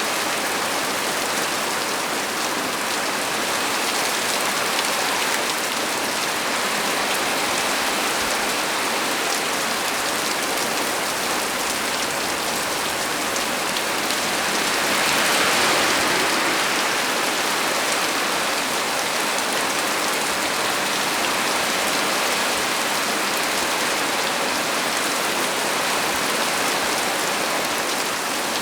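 Heavy rain falling steadily on a small tree's leaves, a dense even patter that swells briefly about halfway through.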